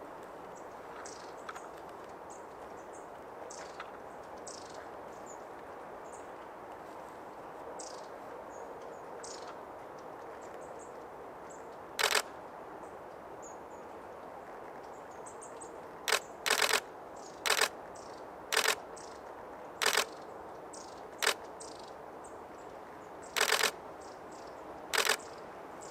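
Nikon DSLR shutter firing in short bursts of continuous shooting: one burst about halfway in, then eight more in quick succession through the second half, over a steady background hiss.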